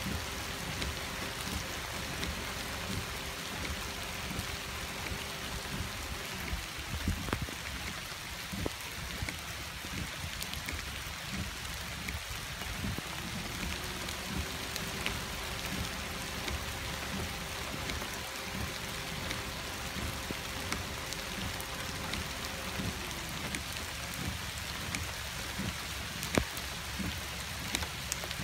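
Steady rain falling, with scattered close raindrops tapping and one sharper drop tap near the end. A faint steady low hum sounds under the rain for the first few seconds and again through the middle stretch.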